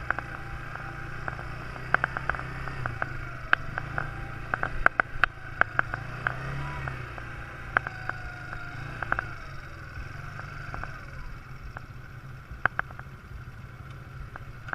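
Quad bike engine running steadily with its pitch drifting gently up and down, with a run of sharp clicks and rattles over the middle of the stretch.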